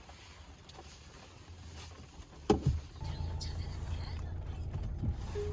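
A short knock about two and a half seconds in, followed by a steady low rumble.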